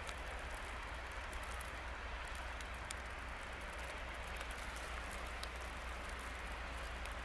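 Steady hiss of rain falling outdoors, with a few faint ticks of drops and a low steady rumble underneath.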